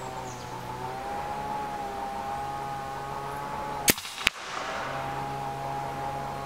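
Shot from an EDgun Leshiy 2 PCP air rifle in .30 calibre: a sharp crack about four seconds in, then a second, slightly weaker crack about a third of a second later.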